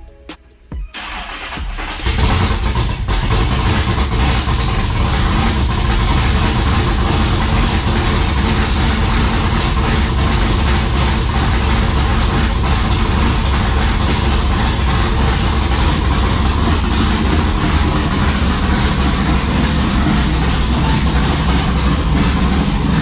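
A drag-racing engine being cranked by its starter, catching about two seconds in, then running at a loud, steady idle.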